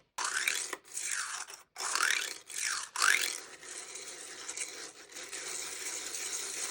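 3D printer stepper motors whining as the print head moves, the pitch sweeping up and down with each move, in short cut-together bursts, then settling to a steadier, quieter run for the second half.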